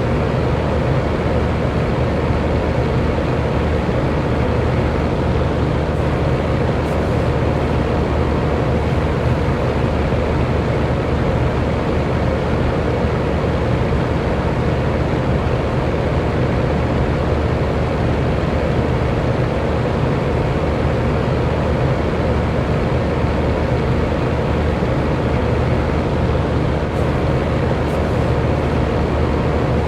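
Electric fan running steadily: an even rush of air with a faint, constant hum from the motor.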